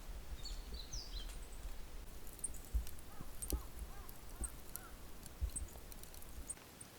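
Outdoor ambience: a few quick high bird chirps, then a short run of small repeated calls, over a low rumble that drops away near the end. Three soft knocks come in the middle.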